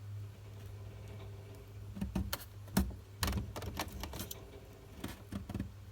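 Small clicks and rustles of electrical wires being handled and twisted together by hand, clustered from about two seconds in, over a steady low hum.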